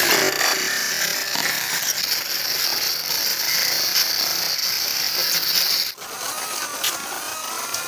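Steady mechanical ratcheting and whirring of a small geared mechanism, cutting off suddenly about six seconds in. A quieter sound with faint wavering tones follows.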